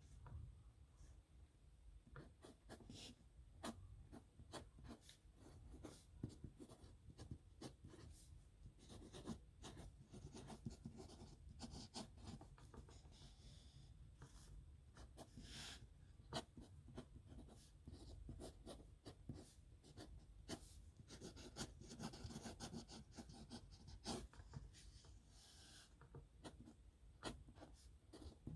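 Faint pen scratching across paper in quick signature strokes, with many light taps as the pen tip touches down and lifts off.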